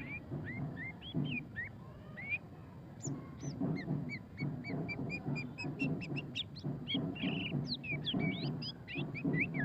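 White-rumped shama singing: a stream of short whistled, sweeping notes that about three seconds in breaks into a rapid run of quick chattering notes, the 'ngeriwik' style. A low pulsing sound runs underneath.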